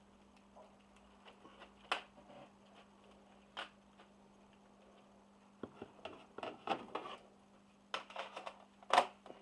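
Scattered clicks, taps and light rattles from pencil sets being handled, with a busy run of taps about six to seven seconds in and the loudest knock near the end, over a faint steady hum.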